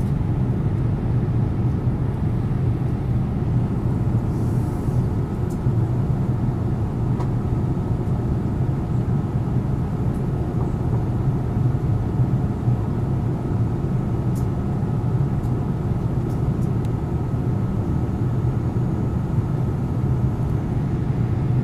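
Boeing 787 Dreamliner jet engines running steadily after take-off: an even, low roar with a faint steady whine above it.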